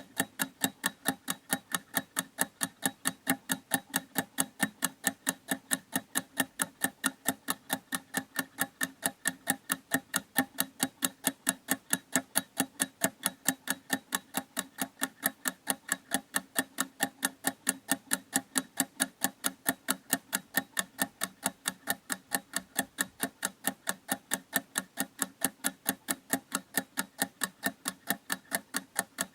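A clock ticking steadily: even, sharp ticks at a regular pace, several each second, all at the same loudness.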